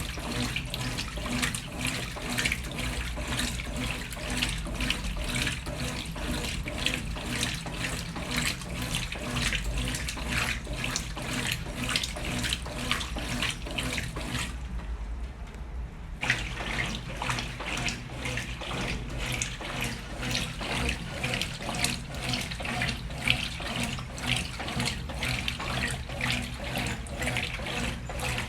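Brastemp Ative! 11kg washing machine agitating a load of laundry: water and clothes sloshing in quick repeated strokes over a steady motor hum. The sloshing drops away for a moment about halfway, then resumes.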